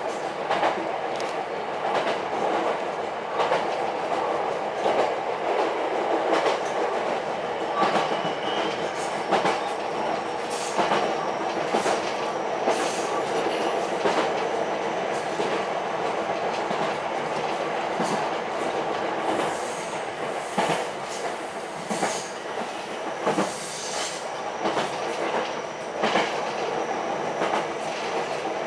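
Ichibata Electric Railway 7000-series electric railcar running along the line, heard from inside the car: a steady rumble of wheels on rail, with repeated clicks over the rail joints. Faint high wheel squeals come and go in the second half.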